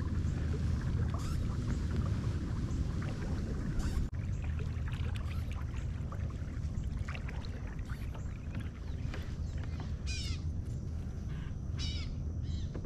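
Kayak under way on the water, with a steady low rumble and water noise. A few short falling crow calls come in about ten and twelve seconds in.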